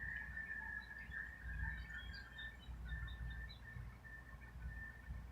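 Outdoor ambience: scattered small bird chirps over a steady high-pitched drone, with a low rumble underneath.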